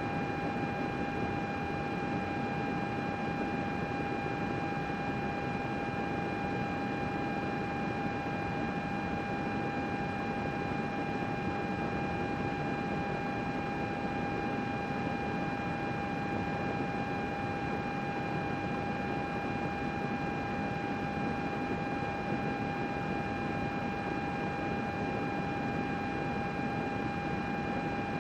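Computer running, its cooling fans giving a steady whir with a steady whine over it.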